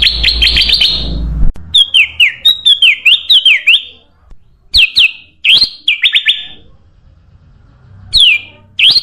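Kutilang emas, a bulbul, calling in a recorded song used as a bird lure. A rapid run of sharp chirps stops abruptly about a second and a half in. Clusters of quick falling whistled notes follow, with short pauses between them.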